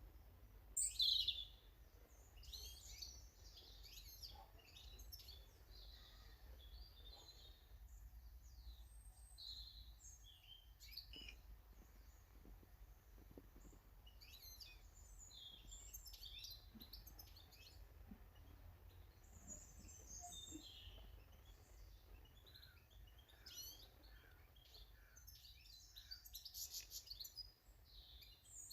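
Small garden birds chirping and calling, many short, high notes scattered throughout, with a louder call about a second in.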